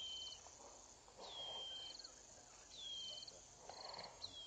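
A bird calling: a whistle that slides down in pitch, repeated four times about a second and a half apart, each followed by a short, rapid, high trill. Faint insect hiss underneath.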